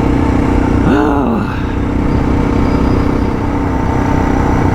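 Suzuki DR650's single-cylinder engine running steadily under way, heard from the rider's position with wind and road rumble on the microphone. A short rise and fall in pitch comes about a second in.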